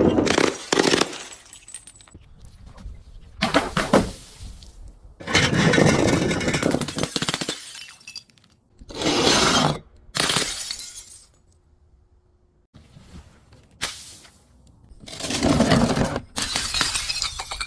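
Glass bottles breaking and being crushed, crunching and shattering in about seven separate bursts, each lasting up to two seconds, with short quiet gaps between them.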